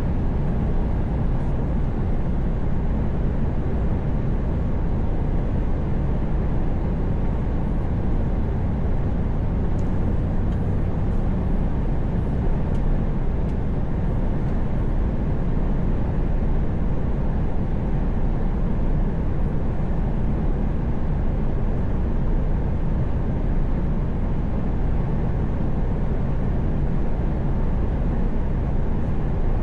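Truck driving at highway speed: a steady low drone of engine and tyre noise.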